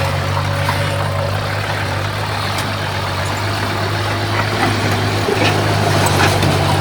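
Heavy diesel engine of earthmoving equipment running steadily at an even low pitch, with a few faint clicks.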